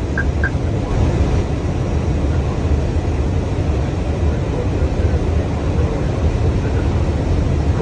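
Airbus A321 flight-deck noise on final approach: a steady rumble of airflow and engines. Three short, high beeps sound right at the start.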